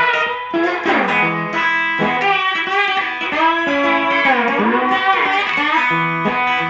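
Instrumental break of a song, led by guitar, its notes bending up and down in pitch over a steady low bass line.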